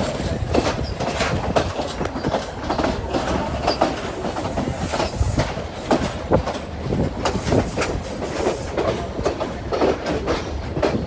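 Train running along the track: steady rumble with irregular clattering and knocks of the wheels over the rail joints.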